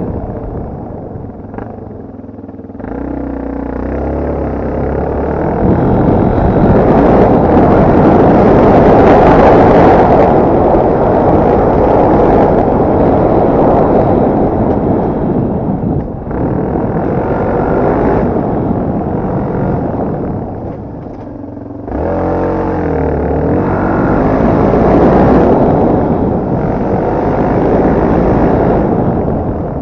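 Off-road motorcycle engine running under changing throttle, rising and falling; it drops back about two seconds in and again near twenty seconds in, then revs up each time.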